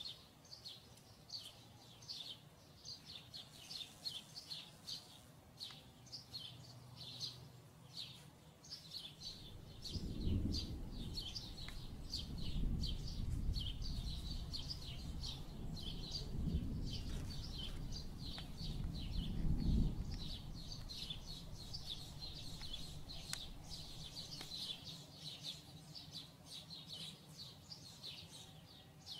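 Small birds chirping in the background, a rapid, steady run of short high chirps. From about ten seconds in to about twenty seconds a low rumble swells in and out, louder than the chirping.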